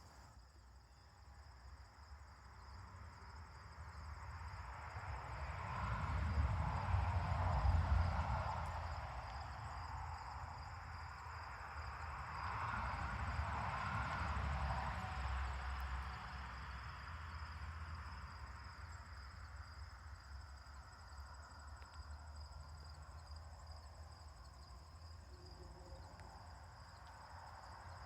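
Crickets trilling steadily at a high pitch. Two slow swells of rushing noise with a low rumble rise and fall beneath them, the louder about a quarter of the way in and the other near the middle.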